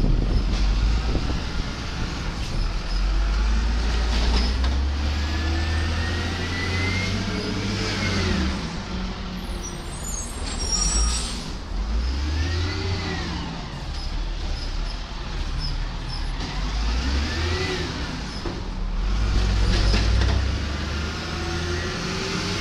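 A 1999 Peterbilt 320 garbage truck's Cat 3126 diesel engine running, its revs rising and falling four times.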